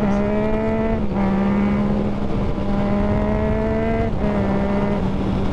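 Yamaha FZ-09's three-cylinder engine under way, its pitch climbing steadily as the bike pulls, with brief breaks about one, two and four seconds in.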